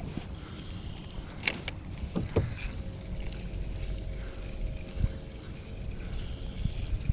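Low, steady wind rumble on the microphone while fishing from a kayak, with a few sharp knocks on the boat about 1.5, 2.5 and 5 seconds in.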